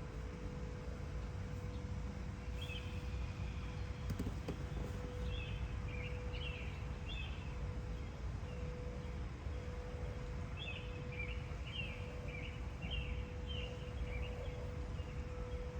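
Small songbirds chirping in short repeated phrases, coming in a few bouts, over a steady low rumble of outdoor background noise and a faint continuous hum.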